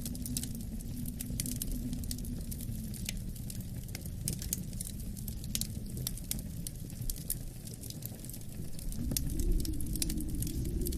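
Wood fire crackling with many small sharp pops over a steady low rush of wind, which swells about nine seconds in.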